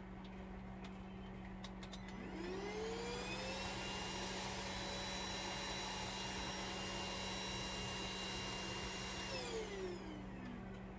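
A small electric motor spins up with a rising whine about two seconds in, runs steadily for about six seconds, then winds down near the end. A few faint clicks come before it starts.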